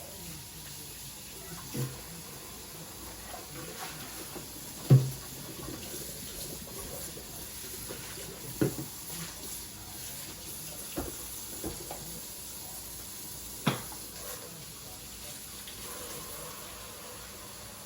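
Water running steadily from a tap into a sink, with several knocks and clunks of things being handled and set down, the loudest about five seconds in.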